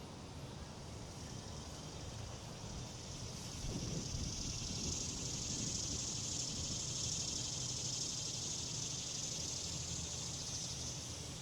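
Outdoor ambience on a golf course: wind rumbling on the microphone, with a steady high hiss or buzz coming up about four seconds in and holding.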